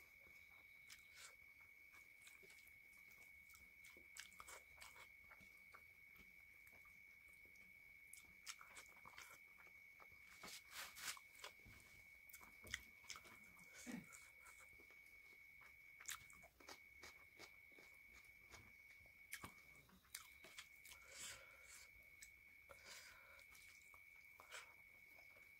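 Faint close-up sounds of a person eating rice and chicken by hand: soft chewing and scattered small mouth clicks. A thin, steady high-pitched whine runs underneath the whole time.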